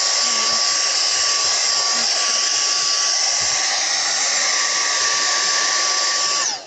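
Vacuum cleaner motor running steadily with a high whine and a lot of noise. Near the end it is switched off and winds down, its pitch falling.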